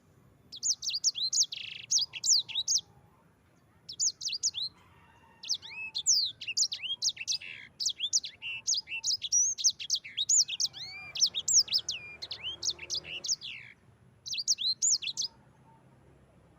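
Sanger songbird singing a fast, rolling song of quick high, sweeping chirps and trills, in several bursts with a short pause between the first phrase and the long middle run.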